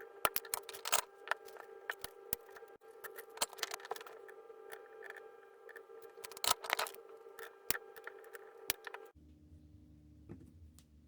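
Irregular sharp clicks and snips of small hand tools on a workbench, over a steady hum. About nine seconds in the hum cuts off suddenly, leaving a fainter, lower hum.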